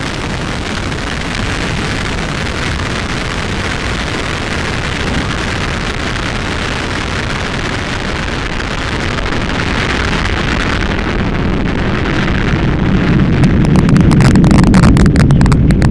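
Atlas V rocket's RD-180 main engine during liftoff and early ascent: a dense rushing noise that grows louder, breaking into rapid crackling about eleven seconds in.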